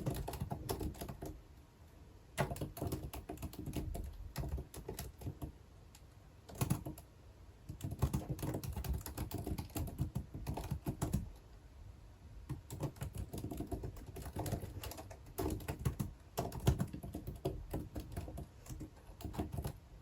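Typing on a computer keyboard, quick runs of key clicks that come in bursts with short pauses between them.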